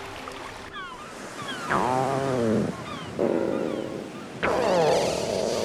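Outdoor ambience: small birds chirping in quick, short falling notes over a steady background wash, with two longer, louder animal calls that arch in pitch, about two seconds in and again near the end.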